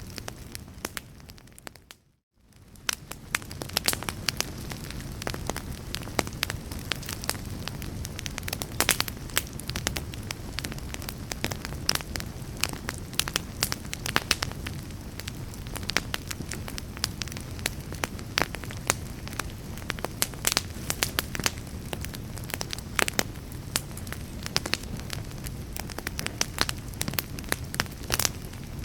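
Wood fire crackling and popping, with many sharp snaps over a steady low rumble. About two seconds in, the sound fades briefly to near silence, then comes back.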